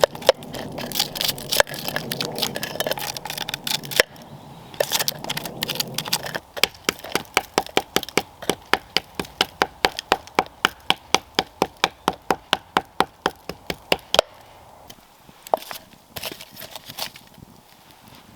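Hard, sharp knocks of wood being struck, coming fast and evenly at about four a second from around six seconds in until about fourteen. Before that come several seconds of dense scraping and crackling work noise with scattered cracks.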